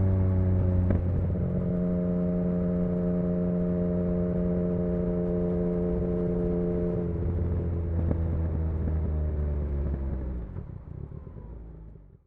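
Yamaha XSR900's inline three-cylinder engine running at steady revs through an exhaust with the dB killer removed. The pitch shifts slightly about a second in and drops a little around seven seconds, then the sound fades out near the end.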